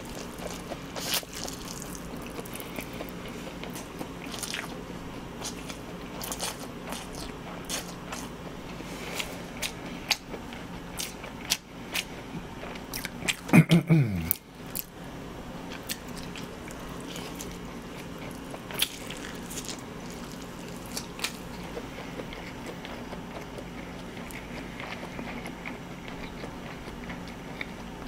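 Close-miked chewing and slurping of a mouthful of spicy mixed noodles (jaengban guksu), with frequent wet clicks and smacks of the mouth. About halfway through comes a brief low vocal sound that falls in pitch.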